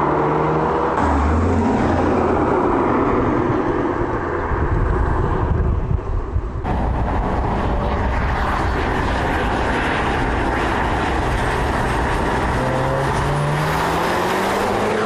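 Audi TTS's 2.0-litre four-cylinder petrol engine and road noise as the car drives. The sound changes abruptly twice, as between shots, and the engine pitch rises near the end as it accelerates.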